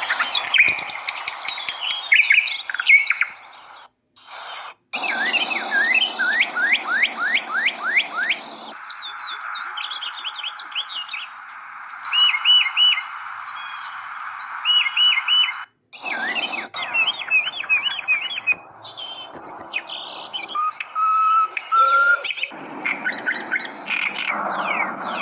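Songbirds singing and chirping: rapid trills, repeated whistled phrases and sharp chirps from several birds at once. The sound cuts off abruptly a few times and starts again, like separate spliced clips.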